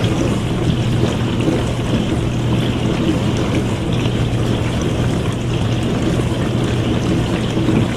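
Dishwasher running mid-cycle: a steady rush of water spraying inside the tub over a constant low motor hum.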